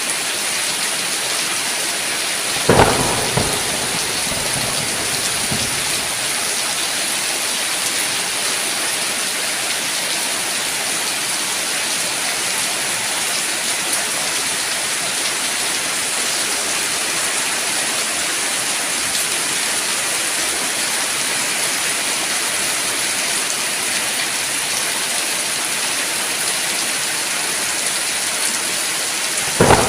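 Steady rain falling, with a sudden clap of thunder about three seconds in and another right at the end.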